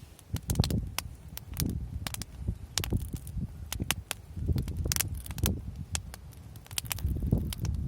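Wood fire crackling, with many sharp irregular pops and snaps, over a low rumble that swells and fades every second or so.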